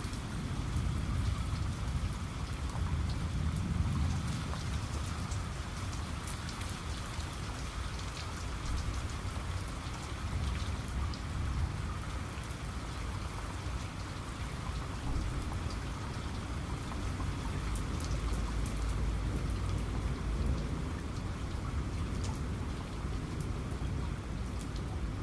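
Steady heavy rain falling, with scattered drop ticks and a deep low rumble underneath.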